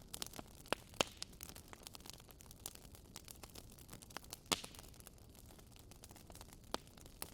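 Wood fire in a fireplace crackling: irregular sharp snaps and pops over a low steady hiss, the loudest snaps about a second in and about four and a half seconds in.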